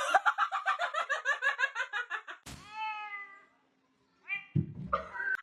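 A cat calling: a fast run of short pitched chirps, about seven a second, then one longer meow falling in pitch, and a few short calls near the end.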